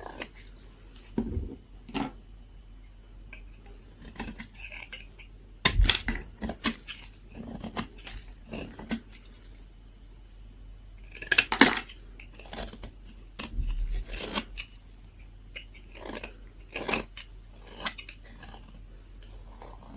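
A blade cutting and carving very dry leftover soap: irregular crisp scraping and crunching strokes, some in quick runs, with short pauses between.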